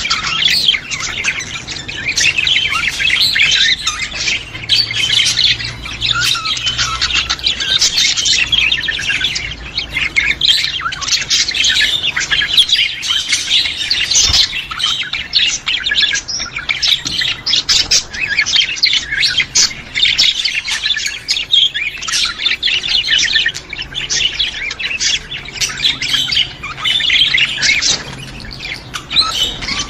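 A group of budgerigars chattering continuously, many quick chirps and warbles overlapping without a break.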